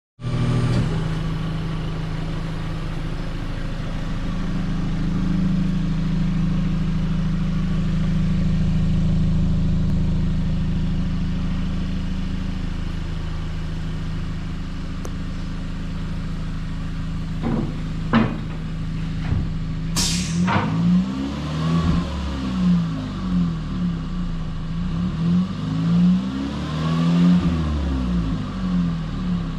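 2020 Hyundai Elantra 1.6 Turbo's turbocharged four-cylinder idling steadily through an aftermarket exhaust with a transverse muffler and twin tips on one side, then revved in a string of short throttle blips over the last ten seconds. A few sharp clicks and one loud crack come just before the revving starts.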